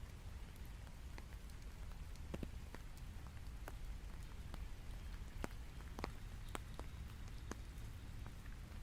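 Steady rain, with scattered separate drops ticking sharply on a nearby surface.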